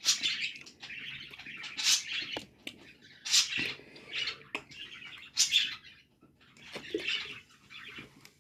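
A person breathing sharply in and out through the mouth, a hissing breath every second or two, to cool a mouth burning from a spicy Cool Ranch Dorito.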